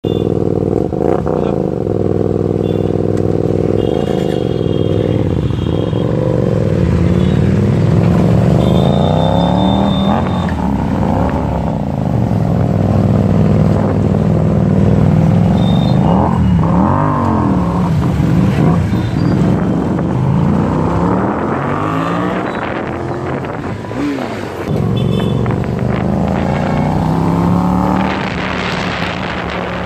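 Hyosung GTR 250's V-twin engine through an aftermarket SC Project exhaust, running under way with its pitch repeatedly climbing and dropping as the rider accelerates and eases off; it climbs again near the end.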